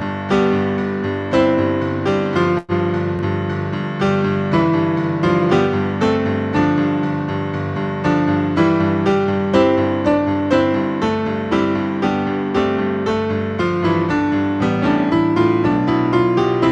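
Solo piano playing a postlude: chords and melody notes struck and left to decay, at an even, moderate pace. The sound drops out for a split second a little under three seconds in.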